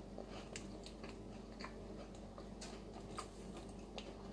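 A person chewing a snack with the mouth closed: faint, irregular crunching clicks.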